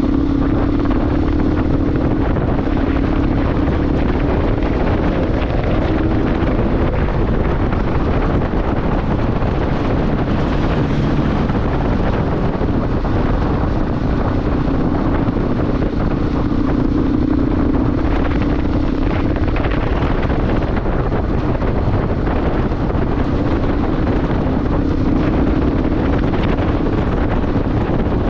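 Motorcycle engine running while riding, its hum fading in and out under steady, loud wind noise buffeting the microphone.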